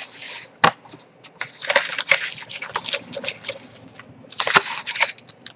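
Cardboard trading-card hobby box being opened and emptied of its packs: cardboard scraping and tearing, with sharp clicks and taps.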